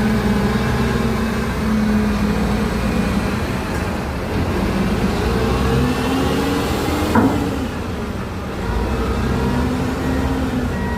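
Heavy dump truck diesel engines running, their pitch rising and falling as the revs change, with a brief sharp knock about seven seconds in.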